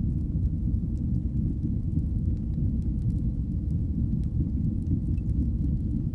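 Wood fire burning in a fireplace: a steady low rumble of flames with scattered faint crackles.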